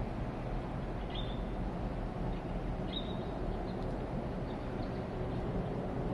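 Steady rumble of an aircraft flying overhead, with two short bird chirps about a second and three seconds in.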